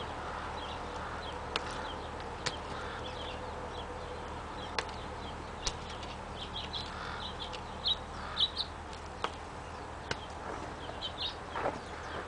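Short, high bird chirps in quick clusters, mostly in the second half, over a steady outdoor background. A few separate sharp knocks are scattered through.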